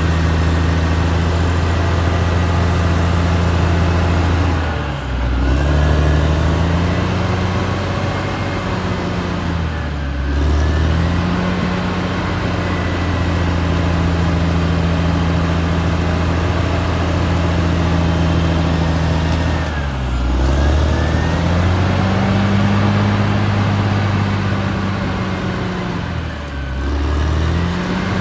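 Caterpillar D6R XL bulldozer's diesel engine running steadily, its pitch dipping briefly and recovering four times.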